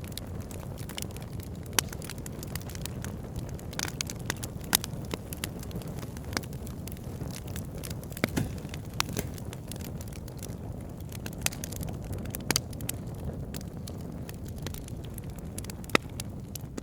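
Campfire burning, crackling with irregular pops and a few louder sharp snaps over a steady low rumble.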